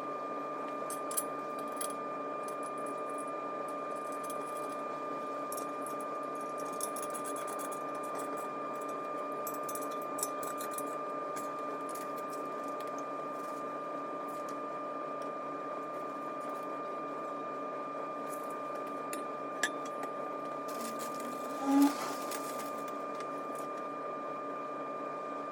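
Scattered light metal clinks and taps as steel engine-stand parts and bolts are handled during assembly, over a steady mechanical hum with a thin high whine. Near the end comes one louder short squeak and clank.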